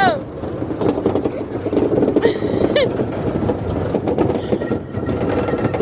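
Tilt-A-Whirl ride running: a steady rumble and rattle of the cars and platform in motion, with a child's brief high cry about two seconds in.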